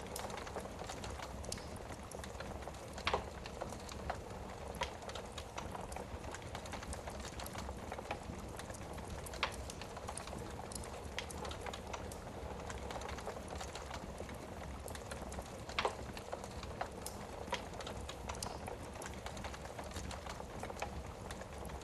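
Wood fire burning in a fireplace: a steady low rush of flames with irregular crackles and snaps, and a few louder pops.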